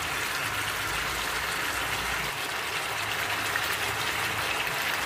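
Chicken pieces in tomato puree and mustard oil frying in a heavy pan: a steady sizzle with fine crackles.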